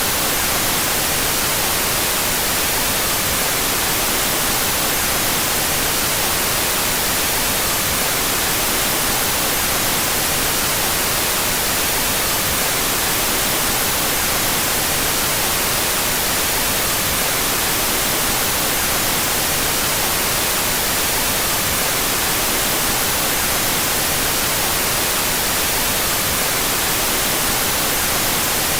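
Steady synthetic white noise with its two stereo channels out of phase: an even, unchanging hiss, strongest in the high end.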